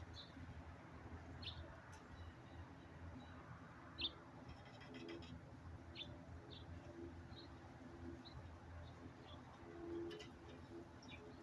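Backyard birds heard faintly: short, high chirps scattered through, with the soft low cooing of a dove at a few points, the clearest near the end.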